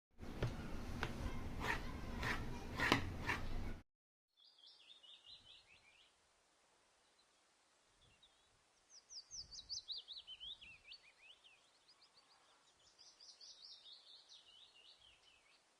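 A loud, dense burst of noise with a few sharp strokes for about the first four seconds, cutting off abruptly. Then a bird singing three separate phrases of rapid trilled notes, some sweeping downward in pitch.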